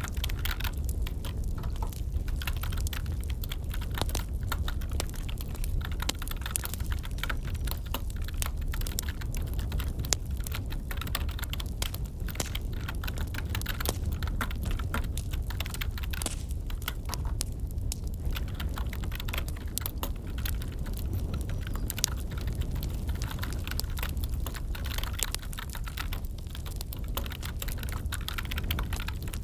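Computer keyboard typing, irregular keystrokes, over a crackling wood fire with a steady low rumble.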